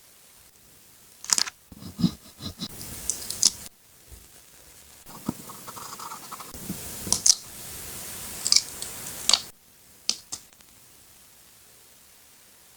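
Paper collage work: scissors snipping and paper rustling and scraping, with sharp clicks scattered through, dying away after about nine and a half seconds apart from two last clicks.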